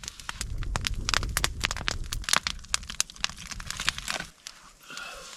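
Campfire crackling and popping with rapid, irregular snaps over a low rumble. About four seconds in, the rumble stops abruptly and only faint, sparse crackles remain.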